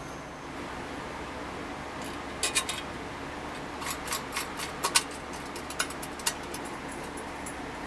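A scattered run of light, sharp clicks and taps, like small metal parts or tools being handled, over a steady low hum. The clicks start about two and a half seconds in and stop a little after six seconds, the loudest about five seconds in.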